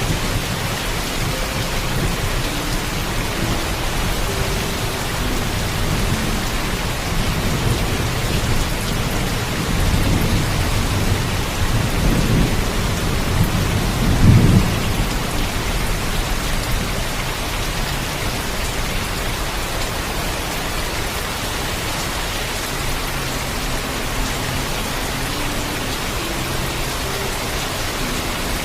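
Steady heavy rain with a rumble of thunder that builds from about ten seconds in, is loudest near the middle, and fades back under the rain.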